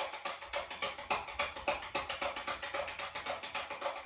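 Light switch flicked on and off over and over, giving a fast run of sharp clicks, several a second.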